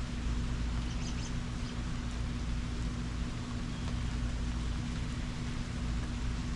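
Steady hiss of rain over a low rumble and a steady low hum, with a few faint high chirps about a second in.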